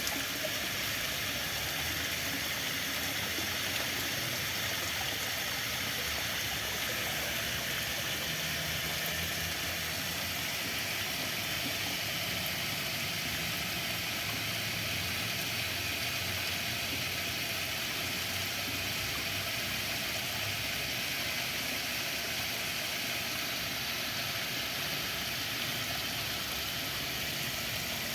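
Water flowing steadily, an even rushing hiss that does not change.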